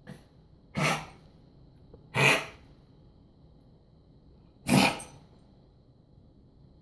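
A dog coughing: one faint cough at the start, then three loud coughs spread over about four seconds.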